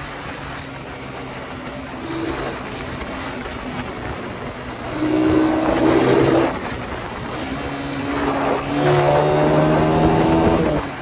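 Suzuki Satria FU 150's single-cylinder four-stroke engine on the move, its exhaust note swelling as it is revved up about five seconds in, dropping back, and revving up again from about nine seconds in.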